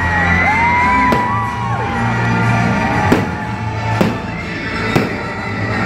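Loud show music playing with fireworks going off over it: about four sharp bangs, roughly a second apart.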